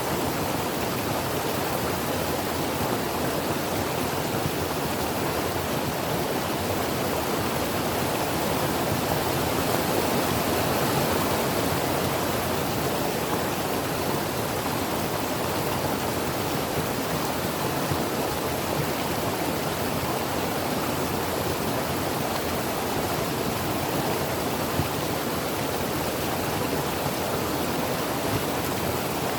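Creek water running over rocks: a steady, even rush.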